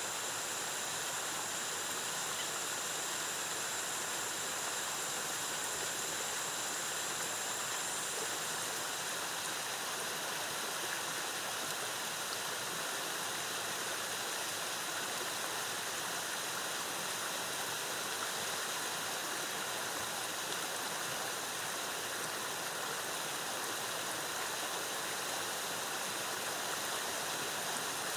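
Waterfall: a steady rush of falling water at an even level, with a thin high tone over it that fades out about nine seconds in.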